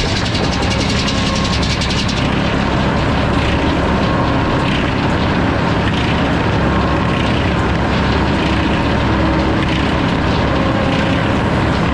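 Sawmill running and sawing a log: a steady engine note under the noise of the blade in the wood, whose sound shifts about two seconds in.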